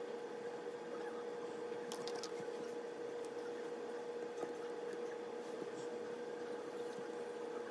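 Steady low electrical hum with a few faint, small clicks and scrapes of hand tools working on a phone's open frame, around two seconds in and again a little past four seconds.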